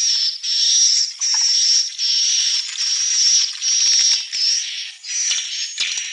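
Swiftlet calls: a high, buzzing twitter repeated in back-to-back phrases about half a second to a second long, each with a steady high tone running through it.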